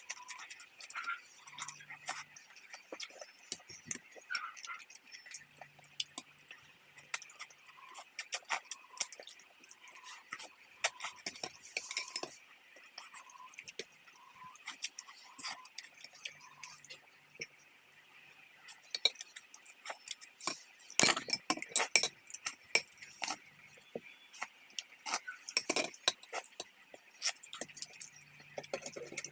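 Eating sounds from a hotpot meal: utensils clinking and tapping against bowls and dishes in many small, irregular clicks, with a faint steady hiss behind.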